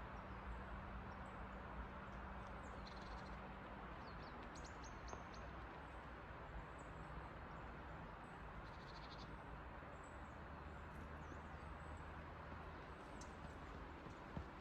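Small songbirds chirping, with a short rapid trill about three seconds in and another about nine seconds in, over a steady low background rush.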